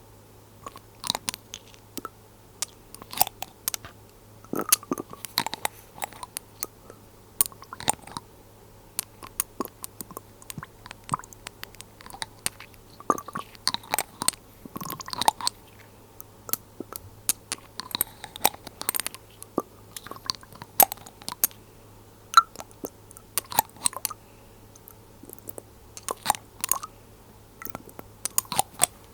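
Irregular run of small, sharp clicks and taps from glass dropper bottles and their lids handled close to the microphone, over a faint steady low hum.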